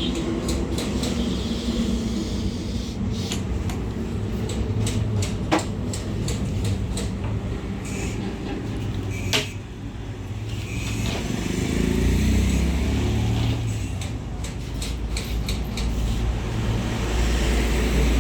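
Traffic noise: a steady low rumble of vehicle engines that swells twice, with scattered sharp clicks and taps.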